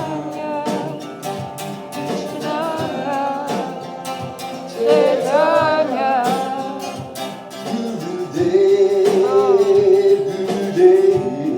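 Devotional song: acoustic guitar strumming under a singing voice carrying long, held melodic notes.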